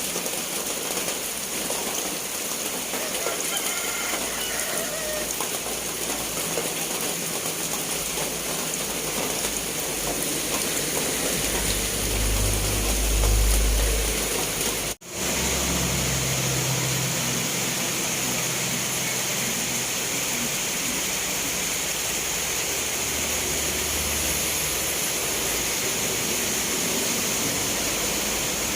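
Steady rain, an even hiss. A low rumble swells about twelve seconds in, and the sound drops out for an instant about fifteen seconds in before the rain carries on.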